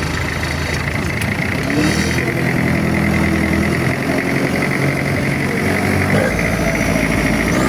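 A boat's large motor running steadily under way.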